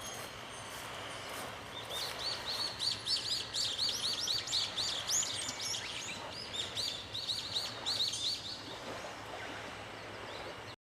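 A bird singing outdoors: a quick series of repeated high chirping notes, about five a second, in two runs with a short break between them, over a faint steady background hiss.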